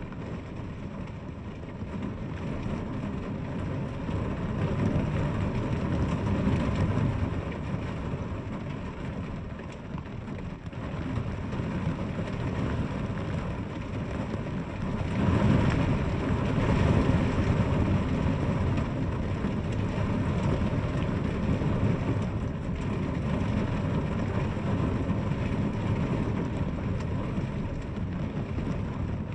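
Steady rain falling on a house window, with a low rumble underneath that swells louder twice, about five seconds in and again around fifteen seconds in.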